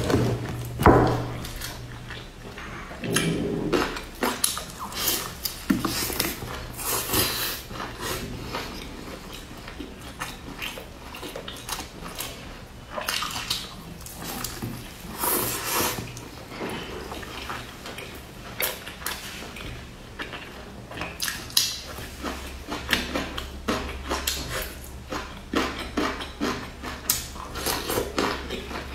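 Close-up biting and chewing of a pan-fried egg-and-chive pancake: irregular mouth and food sounds with many short clicks.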